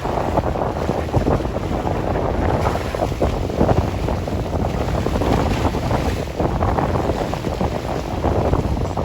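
Wind blowing across the microphone: a loud, steady rush with constant flutter, heaviest in the low end.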